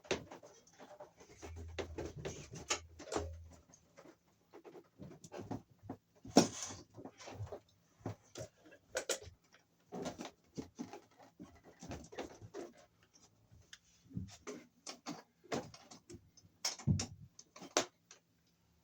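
Irregular clicks, taps and rustling from hands working electrical cable through existing staples, with a few dull low thumps in the first seconds and a sharper knock about six seconds in.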